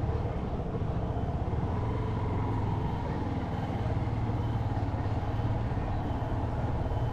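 Motorcycle engine running steadily while riding, with a constant low engine note under road and wind noise.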